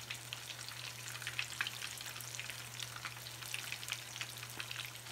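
Batter-coated fish pieces shallow-frying in hot oil in a pan: a steady sizzle full of small crackles and pops.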